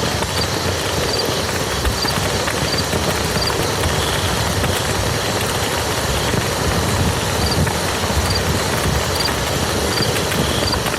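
Steady rain falling on a muddy field, an even dense hiss without pause. Faint short high pips recur every half second or so through much of it.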